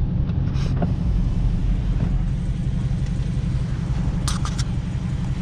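Hemi V8 car engine rumbling at low speed, heard from inside the cabin as the car creeps forward, with a few short clicks about half a second in and again after about four seconds.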